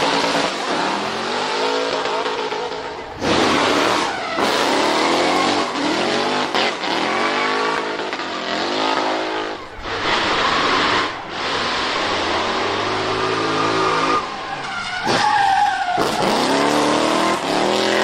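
Drift car engine revving hard again and again, its pitch sweeping up with each burst of throttle, over tyres squealing as the car slides sideways. The sound changes abruptly several times.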